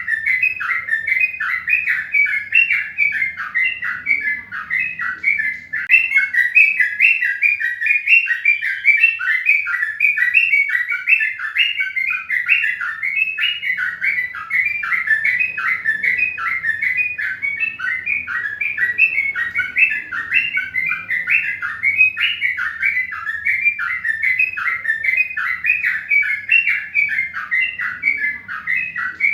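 Birds chirping without pause: a dense, steady run of short, high chirps, about four to five a second.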